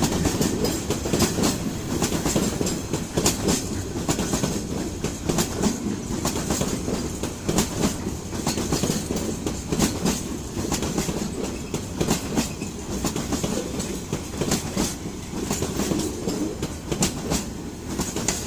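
Freight train of oil tank wagons rolling past, its wheels clattering over the rail joints in a continuous run of clicks over a steady low rumble.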